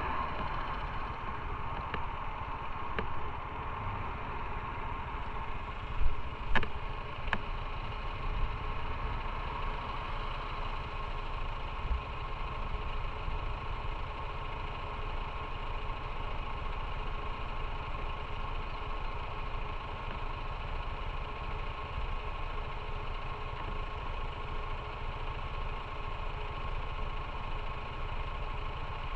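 Motorcycle engine idling steadily, with two short clicks a little after six seconds in.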